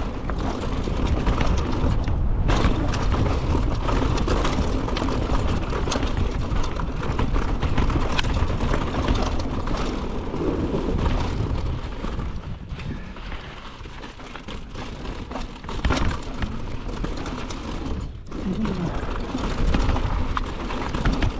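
Mountain bike riding down a dirt trail: wind buffeting the microphone, tyres rolling over the ground, and the bike rattling with many small knocks over bumps.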